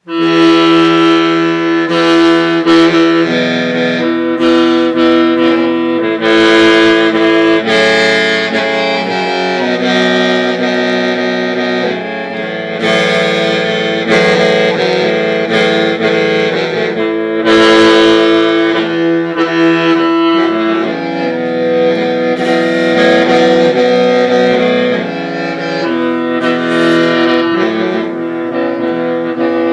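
Hmong qeej (lusheng), a free-reed bamboo mouth organ, playing several notes at once that are held and shift in pitch every second or two.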